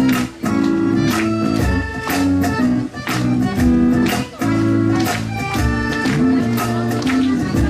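Live band playing an instrumental passage between sung lines: guitar and other instruments over a steady drum beat.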